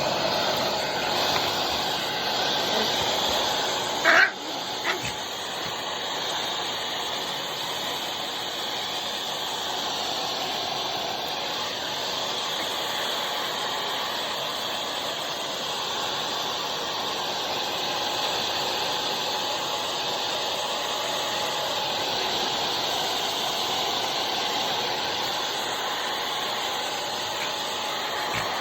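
Hair dryer blowing steadily with a hissing rush of air and a faint whine. About four seconds in there is a sharp, loud sound, then a smaller one just under a second later.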